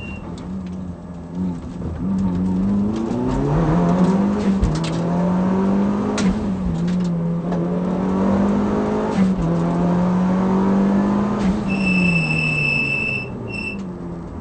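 Mitsubishi Lancer Evolution's turbocharged four-cylinder engine under hard acceleration, heard from inside the cabin: the revs climb and drop back at two upshifts, then fall away near the end. About twelve seconds in, a high electronic beep sounds for about a second and a half, stops, and sounds once more briefly.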